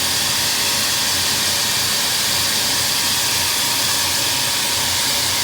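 Water spraying in a steady hiss from a hose nozzle onto the top of an outdoor AC condenser unit during a coil cleaning.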